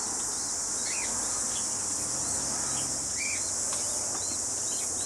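A steady high-pitched insect drone, with many short high chirps from small aviary birds scattered over it and two lower chirps, about a second in and past the three-second mark.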